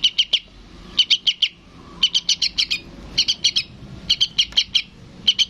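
Juvenile sooty-headed bulbul calling for its parent: short bursts of three to five quick, high chirps, about one burst a second.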